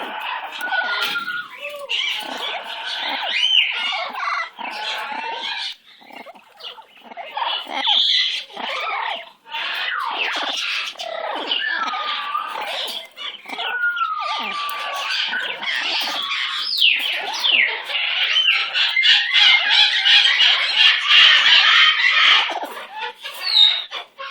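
Pet parrot calling almost without pause: chatter, squawks and whistled glides, loudest a little before the end.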